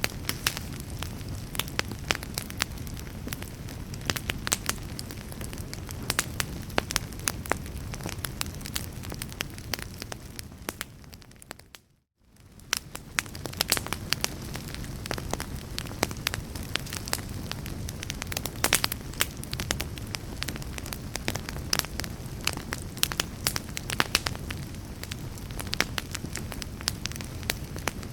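Fire in a fireplace crackling, with frequent sharp pops over a low steady rumble. About twelve seconds in, the sound fades out to a brief silence and fades back in.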